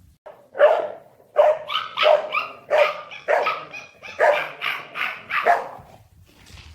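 A dog barking in a rapid series, about two barks a second, stopping about six seconds in.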